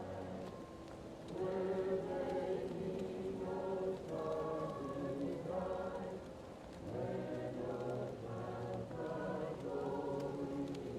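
Choir singing slow, held phrases, muffled as if heard from another room, with short breaks about a second in and past the middle, over the faint crackle of a wood fire.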